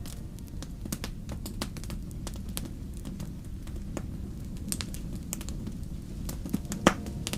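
Wood fire crackling in a fireplace: irregular sharp pops and snaps over a low steady rush of the flames, with one louder pop near the end.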